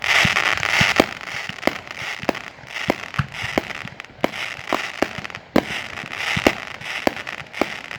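Consumer fireworks going off: a run of sharp pops, about one or two a second, among repeated bursts of crackling hiss.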